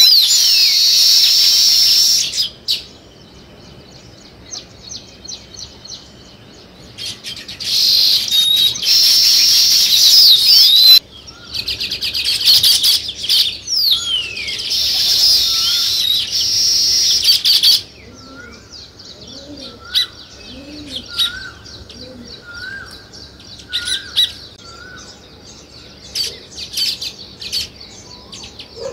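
A flock of small songbirds chirping and chattering, loud and dense in bursts through the first half, then thinning to scattered chirps. A lower call repeats about once a second in the background during the second half.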